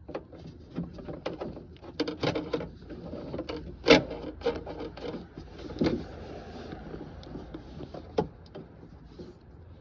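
Hands and a screwdriver working at plastic parts inside a car door: irregular clicks, knocks and rubbing, with a sharp knock about four seconds in and others near six and eight seconds.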